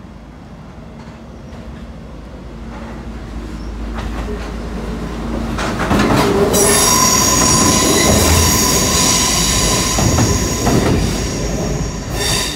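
Network Rail yellow maintenance train approaching through the station and passing close by, growing louder over the first six seconds. It then runs past loudly with a steady high-pitched wheel squeal on the curved track.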